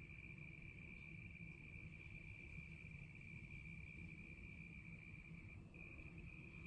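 A cricket trilling: one faint, unbroken high note that drops out for a moment a little before the end, over a low steady rumble.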